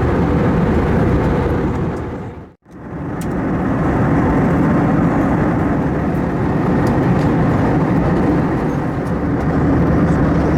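Airbus A321 cabin noise: the jet engines and airflow running as a loud, steady rumble. About two and a half seconds in it fades out briefly and comes straight back.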